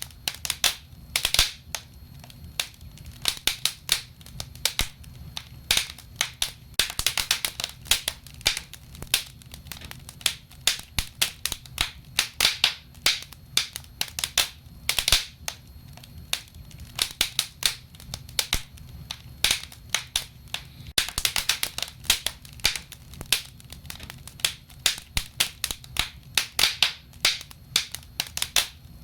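Wood fire burning in a fireplace: irregular crackles and sharp pops, some in quick flurries, over a low steady rumble of the flames.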